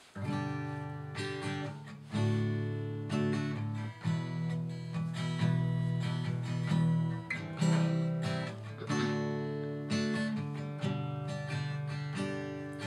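Acoustic guitar strummed in a slow chord progression, each chord ringing out before the next.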